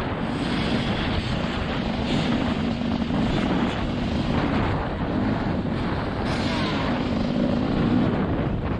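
TM 300 two-stroke motocross bike engine running hard under load, its note rising and falling again and again as the throttle is worked.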